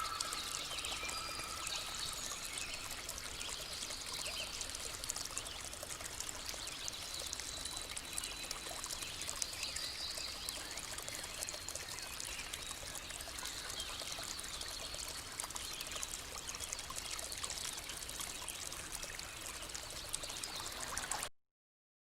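Stream water running and trickling in a steady, even rush, with a few faint high chirps over it; it cuts off suddenly near the end.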